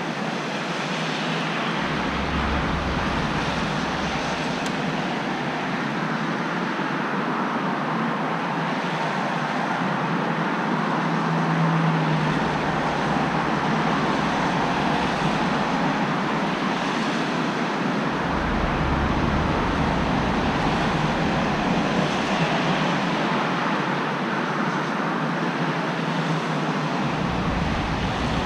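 Road traffic in rain: a continuous hiss of tyres on wet road mixed with rain, with vehicles swelling past every few seconds and a low rumble that comes and goes.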